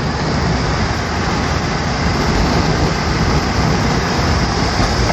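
Steady vehicle and road noise: a continuous low rumble with a hiss over it.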